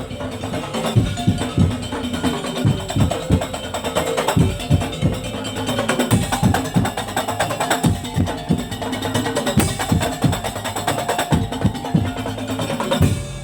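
Madurese tong-tong (daul) ensemble playing fast, dense percussion of wooden slit drums and drums with a pitched melody line over it. The music cuts off just before the end.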